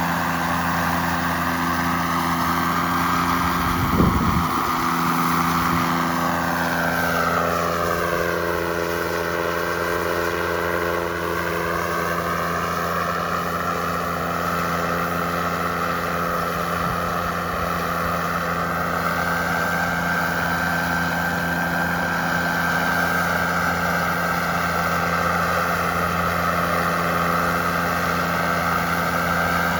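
Model jet's small turbine engine running in flight, its whine sweeping down in pitch and back up as it passes, over a steady low drone. A single sharp knock about four seconds in.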